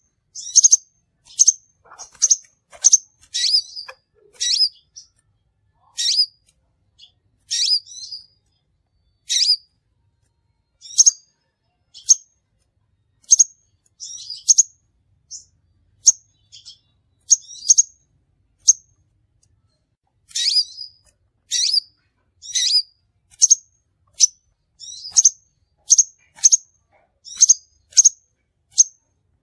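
Crimson sunbird calling: a long series of short, sharp, high-pitched chirps, about one or two a second, with a couple of brief pauses.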